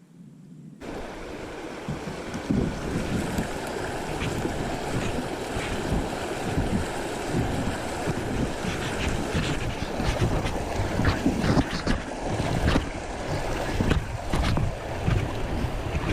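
Rushing, splashing river water and wind buffeting an action-camera microphone, with frequent rubbing knocks against the mic. It starts suddenly about a second in.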